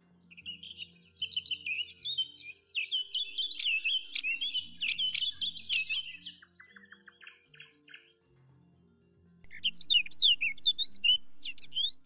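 Small birds chirping and twittering in quick, high notes for the first half, then a second, sharper burst of chirps near the end, over soft background music.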